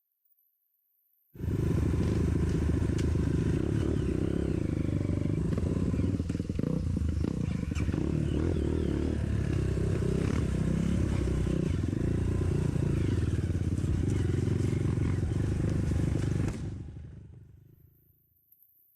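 Trail motorcycle engine running while being ridden, with rattling clatter; it cuts in abruptly about a second in and fades away near the end.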